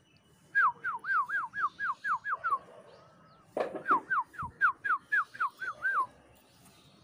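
A bird calling: two runs of about eight clear whistled notes, each sliding down in pitch, about four notes a second, with a brief thump between the runs.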